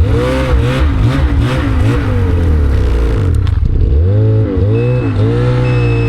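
Snowmobile engine revved in repeated bursts, its pitch rising and falling several times as the rider works the sled back and forth to pack down the snow under it. A rushing hiss rides over the first three seconds; the revs dip about three and a half seconds in, then climb again and hold steadier near the end.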